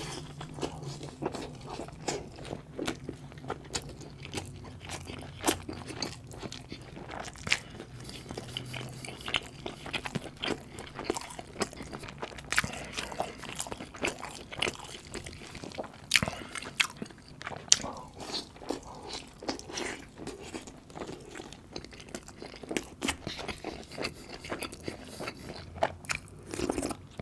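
Close-miked eating of a butter chicken and naan meal by hand: biting and chewing with many sharp, irregular wet mouth clicks.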